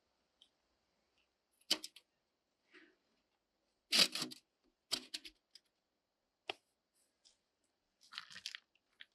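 Irregular short crackling and tearing noises with a few sharp clicks, like things being handled, in a small enclosed space; the loudest burst comes about four seconds in and another crackly cluster near the end.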